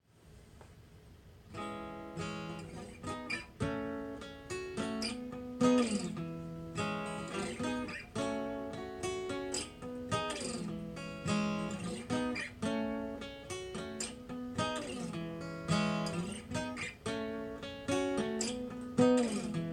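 Acoustic guitar strumming chords as the instrumental intro to a song, starting about a second and a half in.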